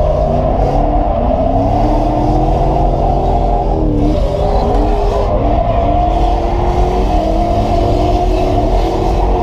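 Toyota 1UZ-FE V8 engine in a drifting Nissan 240SX heard from inside the cabin, its revs rising and falling again and again as it is worked hard through the slide.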